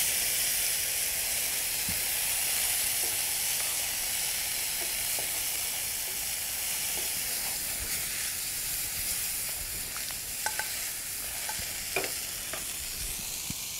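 Kidney beans, white maize and onions sizzling in a frying pan as they are stirred with a slotted spatula, which clicks against the pan a few times in the second half. The sizzle slowly dies down.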